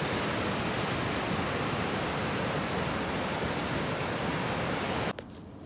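Steady rushing of flowing water, an even hiss across the whole range, which cuts off abruptly about five seconds in with a click, leaving a much quieter background.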